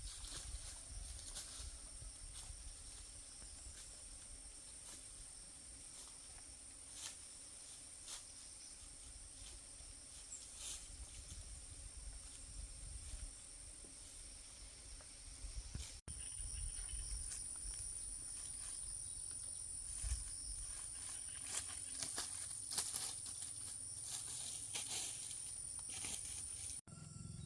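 Outdoor rural ambience: insects keep up a steady high-pitched drone, which grows louder about halfway through. Scattered short clicks and rustles and a low rumble run under it.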